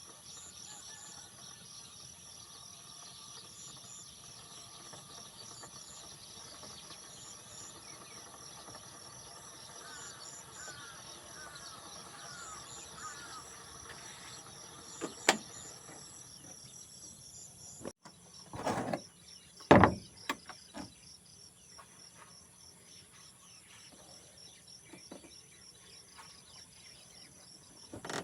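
Steady high-pitched chorus of crickets and other insects, with a run of short sloping chirps partway through. After a sudden break, a few loud thumps stand out over the chorus.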